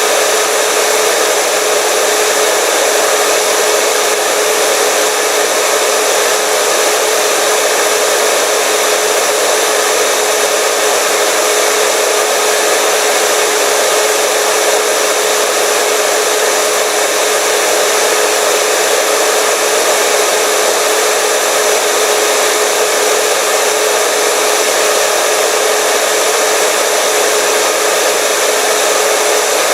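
Hair dryer running continuously with a steady whoosh of air and a constant motor whine, unchanging throughout.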